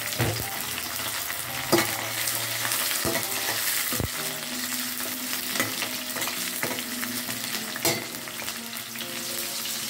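Sliced shallots, garlic and chillies sizzling in hot oil in a stainless steel pot, stirred with a spoon. A few sharp clicks of the spoon against the pot break the steady frying hiss.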